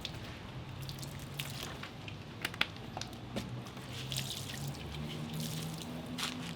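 Water dripping and spattering in short, scattered hissy bursts as decals are wet-applied to a car's body, over a low steady hum.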